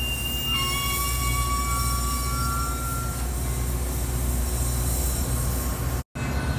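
A train rolling past with a steady low rumble, its wheels squealing in several high, steady tones through the first three seconds. The sound cuts out for an instant near the end.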